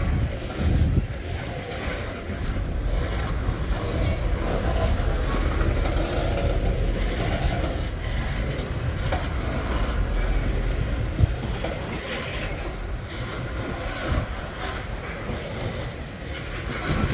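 Freight train rolling past: a steady rumble of wheels on rail with occasional clicks.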